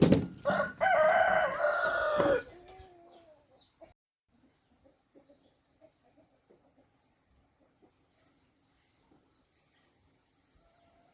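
A rooster crowing once, a loud call of about two seconds that falls away at the end. Faint clucking follows, and near the end there is a quick run of about four high chirps.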